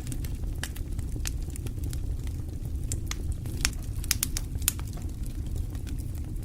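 Wood fire crackling in a fireplace: irregular sharp pops and snaps over a steady low rumble of the flames, busiest about halfway through.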